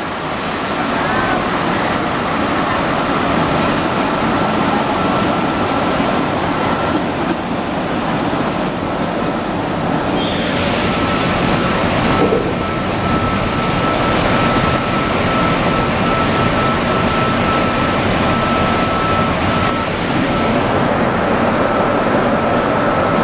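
Santiago Metro NS-74 rubber-tyred metro train running along the track, a steady rumble of running noise with thin, steady high-pitched whine tones over it.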